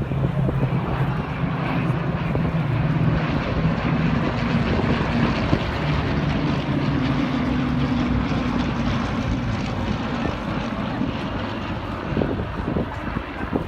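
Propeller aircraft flying, its piston engines giving a steady drone that shifts up in pitch partway through and fades near the end.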